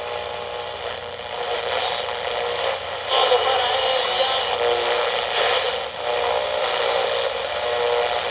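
Train sound effect of a steam locomotive running: a continuous, rushing noise with faint steady tones, heard through the narrow, hissy sound of an old radio recording. It grows a little louder about three seconds in.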